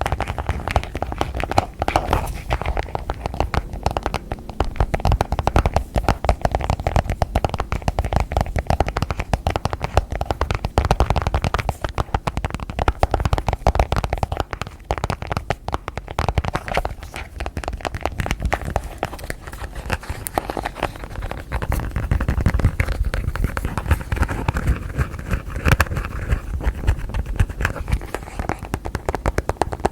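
Fingers and nails tapping and scratching quickly on objects and their lids, a dense stream of many small clicks a second that never lets up.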